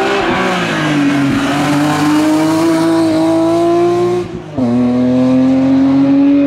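BMW E36 racing car's engine accelerating hard out of a hairpin, its pitch climbing steadily. About four seconds in the sound briefly drops away for an upshift, then pulls again from a lower pitch.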